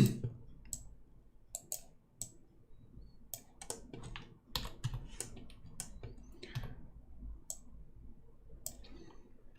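Irregular computer mouse and keyboard clicks, short and scattered, during work at a computer.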